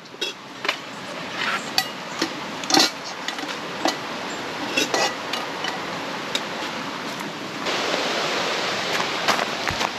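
Scattered light knocks and clinks, like items being handled, over a steady hiss that becomes louder about three-quarters of the way through.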